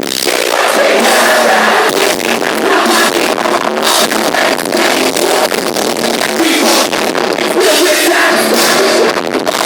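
Loud live metal band playing at close range, a dense wall of sound with drum hits running through it.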